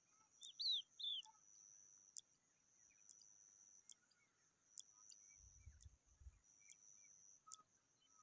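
Three short, high chirps from skylark chicks in quick succession about half a second in, then only faint scattered peeps. A faint steady high-pitched hiss with regular ticks about once a second runs underneath, and two brief low rumbles come after about five seconds.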